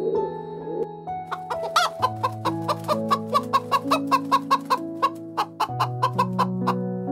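Domestic hens clucking in a quick run of short calls, about four a second, starting about a second in and stopping near the end. Background music with sustained notes plays underneath.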